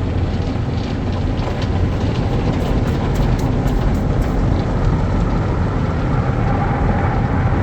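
Automatic tunnel car wash at work on the car: the spinning cloth top brush and water spray scrubbing the body, a steady dense rumble heard from inside the car.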